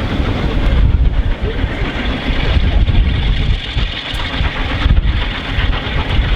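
LMS Royal Scot class steam locomotive 46100 running with its train, a loud, dense rumble, with wind buffeting the microphone.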